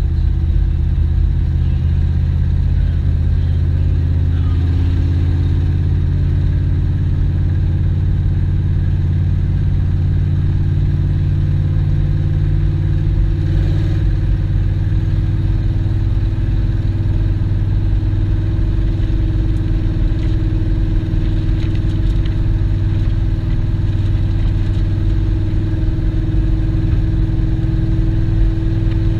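Car engine running steadily at a cruise around the track, heard from inside the cabin as a deep, even drone with no revving.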